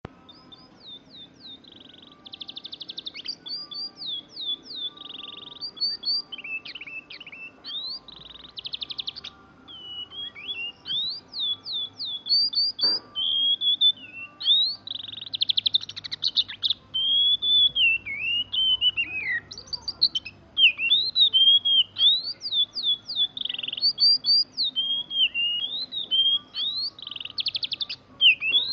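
Oriental magpie-robin singing continuously: varied whistled slurs and chirps, broken every few seconds by rapid rolling trills that mimic a canary's song.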